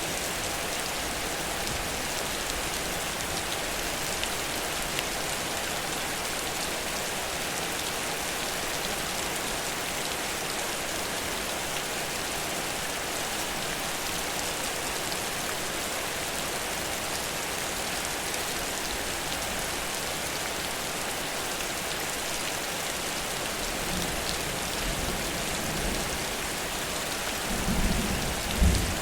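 Heavy rain falling steadily in a downpour. Near the end a low rumble of thunder builds and peaks twice.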